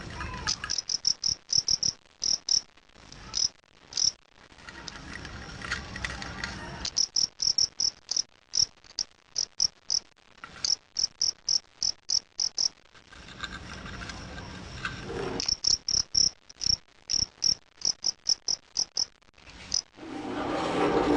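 Male fighting cricket (jangkrik aduan) chirping: runs of short, high-pitched chirps, several a second, broken by pauses of a second or more.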